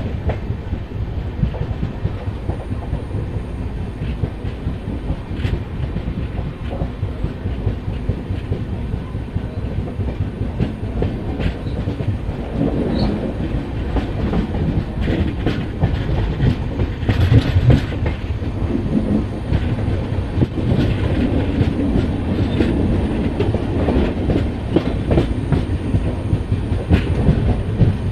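Train rolling along the track at steady speed: a continuous low rumble with wheels clicking over the rail joints, growing a little louder about halfway through.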